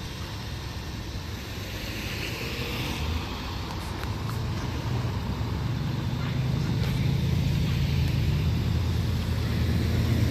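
Motor vehicle engine rumble at a railroad crossing, growing louder over the second half, with a few faint clicks.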